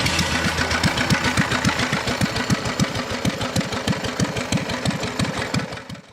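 Single-cylinder Lister D engine running with a regular, slow beat of about five firing pulses a second.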